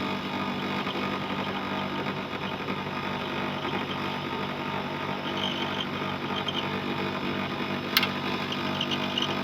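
Window air conditioner running steadily with its compressor and fan on the medium setting, a constant hum. A single sharp click comes near the end.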